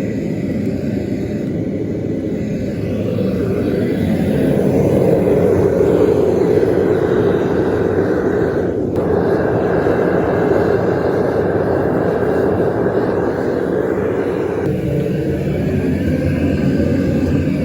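Metal-melting furnace firing, giving a steady rushing noise. It grows louder about three seconds in and dips briefly around the middle.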